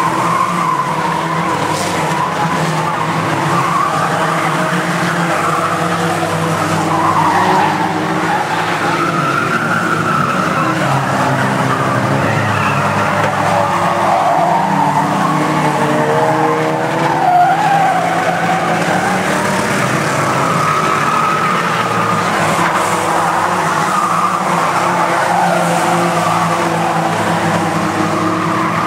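A pack of old banger-racing stock cars' engines running and revving together, a continuous loud mix of engine notes rising and falling.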